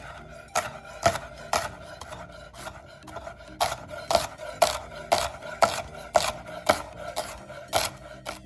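Knife chopping shallots on a cutting board in sharp, even strokes, about two a second, with a short pause after the first three.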